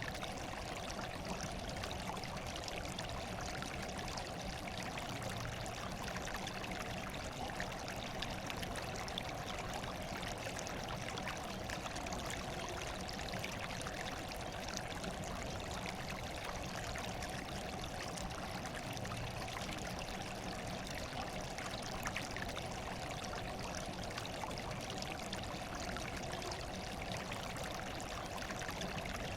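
Running water pouring and trickling steadily, an even rushing splash that does not change.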